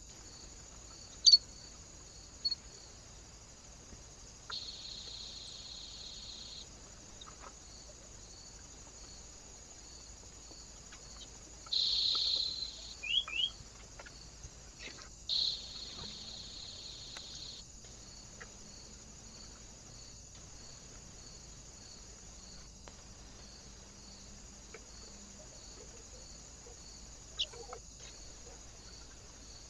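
Small birds at a feeder: a few short high chirps and brief fluttering bursts, with several sharp taps, over the steady high hiss of a trail camera's microphone.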